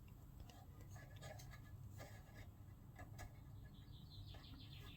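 Near silence with faint clicks of small engine parts being handled and fitted, and a quick run of faint high ticks near the end.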